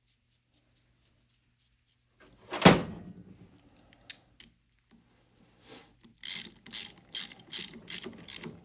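Hand tools at work on a small engine: one loud clunk, a few light clicks, then a quick run of six short rasping ratchet strokes near the end.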